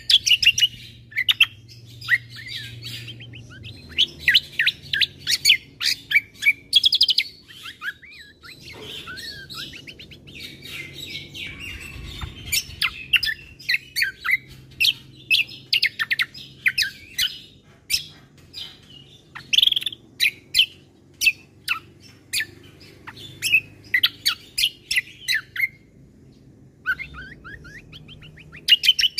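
Cucak kombo (kecial kombo) singing: fast, varied runs of short chirps, sharp notes and trills, with brief pauses between phrases and a short lull near the end.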